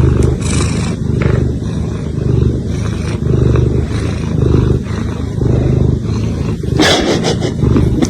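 A domestic cat purring loudly close to the microphone: a steady low rumble that swells about once a second with each breath. A brief scratchy noise comes near the end.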